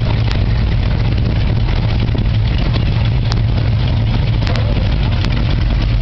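Classic Dodge Challenger's engine idling with a steady low rumble, heard up close, with a few short clicks.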